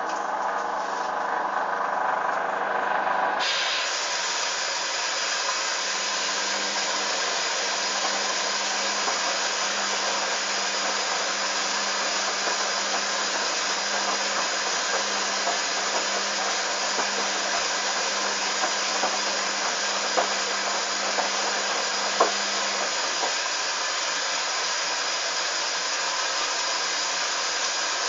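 Hoover Dynamic washing machine starting its fourth rinse: about three seconds in, water begins rushing in through the fill valve with a sudden, steady hiss. A low hum beneath it stops about three quarters of the way through, just after a faint click.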